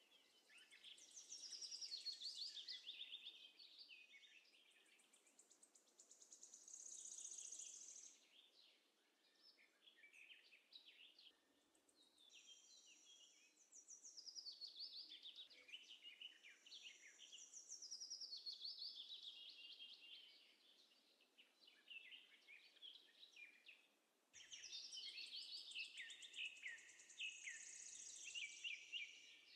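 Faint birdsong: phrases of quick, high twittering notes a few seconds long, with quieter gaps between them.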